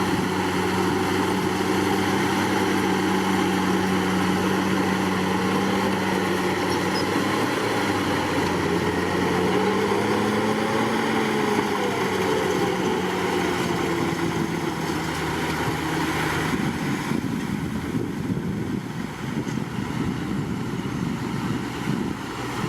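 Komatsu D61PX bulldozer's diesel engine running steadily. It revs up and back down briefly about halfway through, and in the last few seconds the steady engine note gives way to a rougher, noisier churning.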